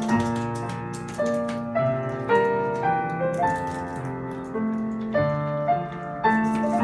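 Piano playing a slow instrumental passage: melody notes over chords, struck about every half second and left to ring and fade.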